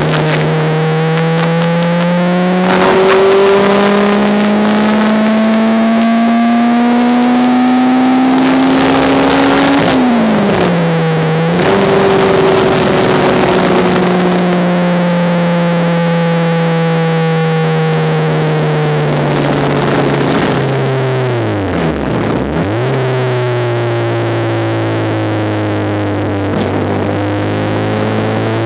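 Honda Civic race car's engine at speed on track, heard onboard. The pitch climbs steadily for about ten seconds under acceleration and dips briefly around a gear change. It then falls slowly for several seconds, drops sharply and recovers near the end, and starts climbing again.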